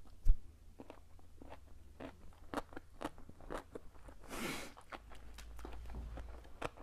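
Close-miked chewing of a pickled daikon (oshinko) maki roll: a scatter of short, soft crunches and mouth clicks, only lightly crunchy. A knock on the clip-on microphone about a third of a second in is the loudest sound.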